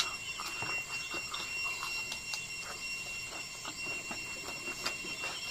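Close-up chewing of bamboo shoot and rice: a run of small, irregular crunching clicks. A steady high-pitched tone hums underneath.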